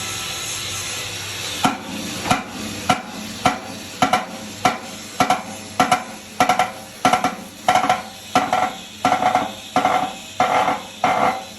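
A steady hiss, then from about a second and a half in a regular run of hammer blows on metal, roughly one every 0.6 seconds, each ringing briefly and the later ones ringing longer.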